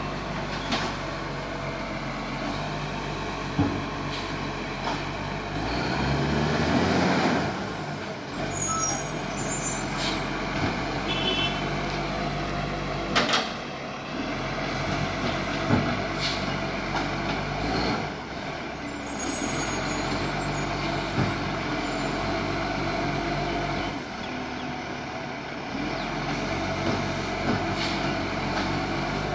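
Garbage truck's diesel engine running, revving up briefly about six seconds in, with short air-brake hisses and several sharp clunks.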